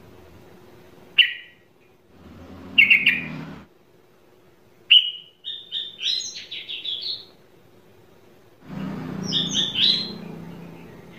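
A songbird calling: a sharp chirp, a short cluster of notes, then a longer phrase of quick high notes, with another short burst near the end.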